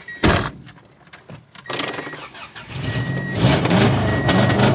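A sharp thump, then a vehicle engine starts about three seconds in and runs steadily. A short high beep repeats about once every second and a bit.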